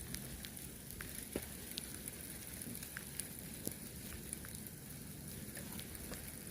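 Falling snowstorm precipitation: irregular light ticks of icy snow grains striking nearby surfaces over a steady hiss.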